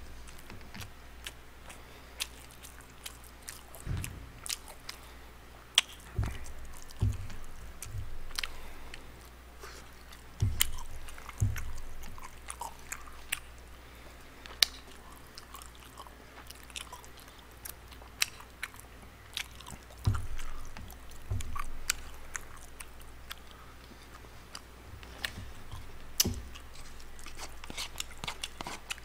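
A person eating close to the microphone: chewing and mouth sounds from spoonfuls of rice and rice cakes, with scattered sharp clicks and a few low thumps.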